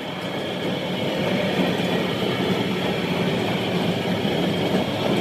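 Workshop machinery running steadily: a continuous mechanical rumble with a thin, steady high whine over it.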